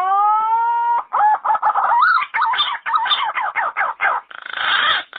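Yellow-footed green pigeon calling: a long whistled note that rises and then levels off, followed by a quick run of warbling, wavering notes, then a few rougher, harsher notes near the end.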